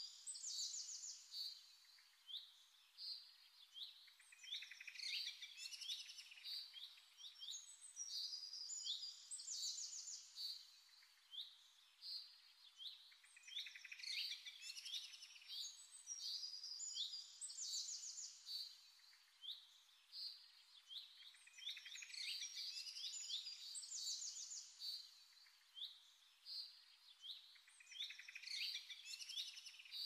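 Small birds chirping and trilling, many short high calls in quick succession.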